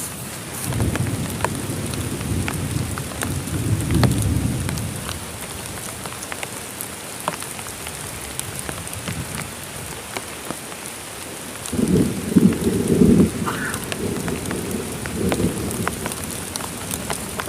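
Heavy rain falling steadily, with single drops tapping sharply close by. Low thunder rumbles from about a second in and again, louder, about twelve seconds in.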